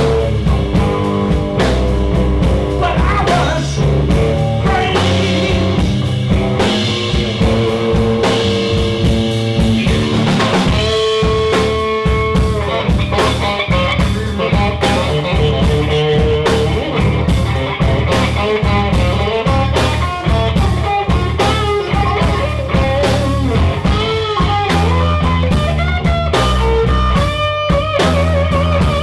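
Live blues band playing an instrumental break of a slow blues: lead guitar lines with bent, wavering notes over drums and a low bass line, with no vocals.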